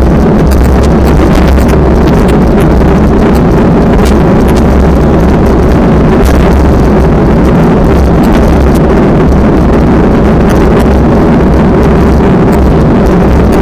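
Strong wind buffeting the microphone: a loud, steady, low rumble with no letup.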